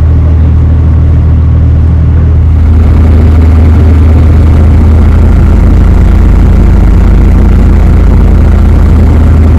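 A barge's inboard engine running steadily under way with a low, even hum. It gets a little louder and fuller about two and a half seconds in.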